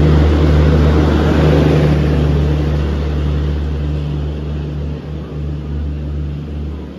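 Green-and-yellow Garib Rath express coaches rolling past, wheels rumbling on the rails over a steady low hum, the noise fading gradually as the train pulls away.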